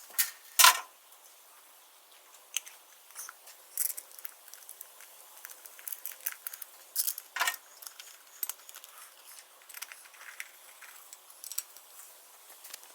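Scattered light clicks and taps of small hard objects being handled, two of them louder, about half a second in and again past halfway. No engine is running.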